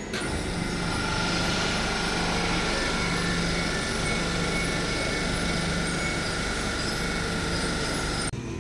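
Train running through the station: a steady rumble with a steady high whine over it, cutting off abruptly near the end.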